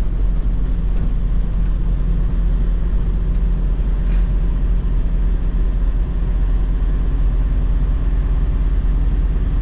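Semi-truck cab interior while driving: a steady low diesel engine drone with road and tyre noise, and a short hiss about four seconds in.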